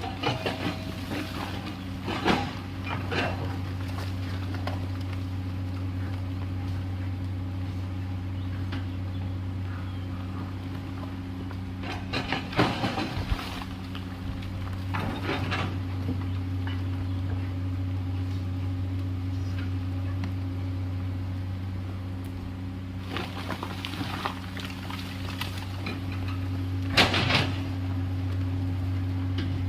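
Komatsu PC210LC excavator's diesel engine running at a steady drone, with short knocks and clatters from the machine at work every few seconds, loudest about 13 and 27 seconds in.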